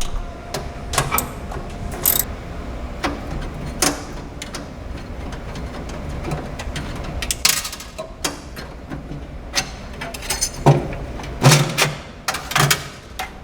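Irregular clicks and clatter of hand tools and metal parts as the acorn nuts holding a fryer's main fan shroud assembly are taken off and the shroud is handled, with a quick cluster of knocks near the end.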